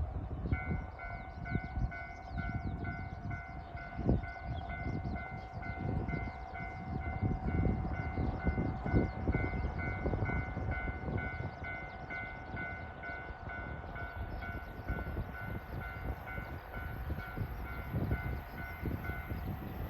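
A 789 series limited express train passing with a heavy rumble and irregular wheel thumps, over a railway crossing warning bell ringing about twice a second. The bell stops near the end.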